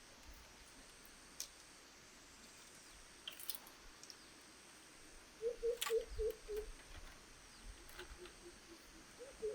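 A quick run of about six short, pitched animal calls about halfway through, stepping slightly lower, with a second run starting near the end, over faint hiss and a few scattered clicks.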